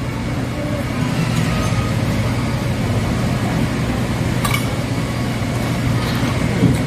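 Steady low background hum with two short clinks of tableware, one a little past halfway and one at the very end.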